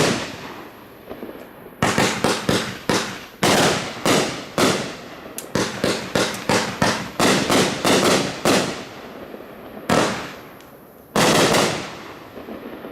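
A Supreme "Train Wreck" 500-gram, 25-shot multi-shot fireworks cake firing. Its sharp bangs come several a second from about two seconds in until near nine seconds, then two last bangs follow a second or so apart before the sound dies away.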